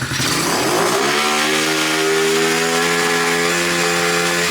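Freshly cold-started TaoTao 110cc four-stroke pit bike engine revving up from idle over about a second, held at steady high revs for about three seconds, then starting to drop back at the very end.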